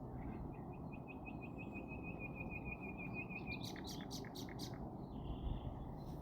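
A small bird singing a trill: a run of short, evenly spaced notes on one high pitch, about six a second for some three seconds, followed by a few sharp high chirps. Steady low background rumble underneath.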